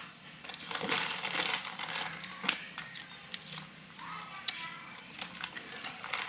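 Close-miked crunching of crispy fried noodles (mie kremes) being chewed, an irregular run of crackly crunches.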